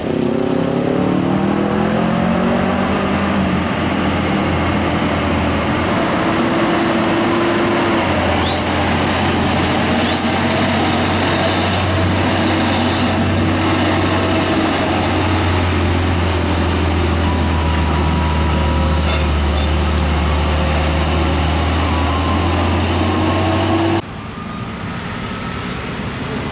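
Heavy diesel trucks running on a road with a steady, loud low drone. The engine note falls over the first few seconds. About 24 seconds in, the sound cuts abruptly to quieter traffic.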